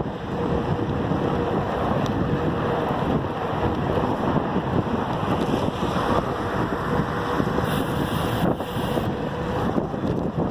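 Wind rushing and buffeting over the microphone of a camera on a moving bicycle, a steady loud rush. A brief higher hiss joins in about eight seconds in.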